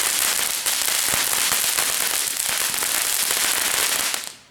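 Ground firework fountain spraying a loud, dense hiss full of small crackling pops, stopping abruptly near the end.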